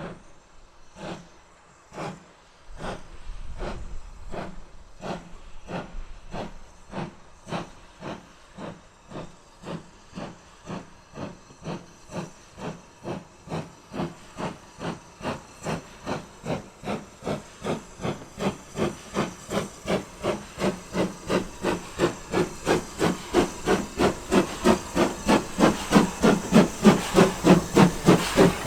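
Steam locomotive exhaust beats, chuffing as it pulls away and gathers speed: the beats quicken from about one a second to about three a second and grow steadily louder as the engine draws nearer.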